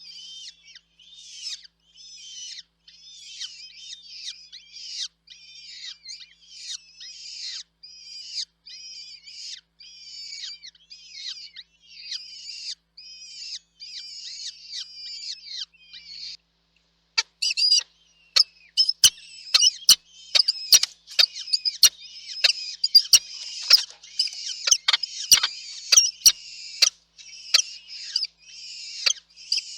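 Nestling birds begging in the nest with rapid, high-pitched cheeping calls, a few each second. After a brief break about two-thirds of the way through, the begging comes back louder and denser, mixed with sharp clicks, as at a feeding.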